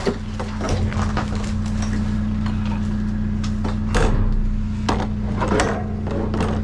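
Junk being rummaged through and moved about in a dumpster: scattered knocks, scrapes and clatters of objects, the loudest about four seconds in. A steady low hum runs underneath.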